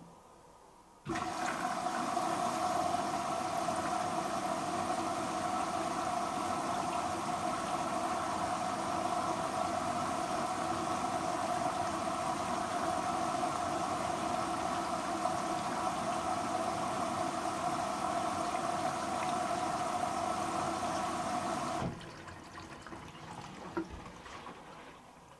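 Hoover H-Wash & Dry 500 washer-dryer taking in water: a steady rush of incoming water that starts suddenly about a second in and cuts off sharply after about twenty seconds, as the inlet valve opens and closes.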